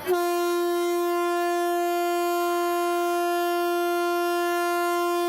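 Train horn sounding one long, steady note that comes on abruptly and is held without a break.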